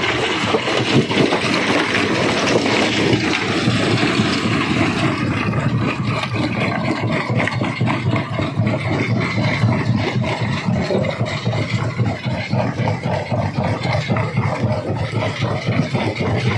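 Rock crusher crushing stone: a continuous grinding and crunching made of many sharp cracks, over the drone of the running machinery. The crunching is brighter and denser in the first five seconds or so, then settles.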